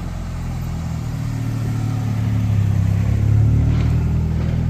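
A car engine running at low revs, steadily growing louder.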